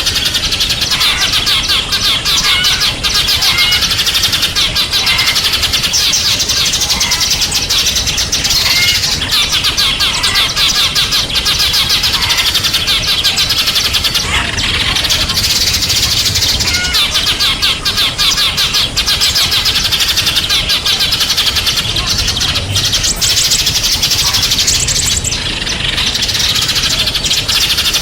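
A chorus of small songbirds chirping and twittering continuously, many rapid high calls overlapping.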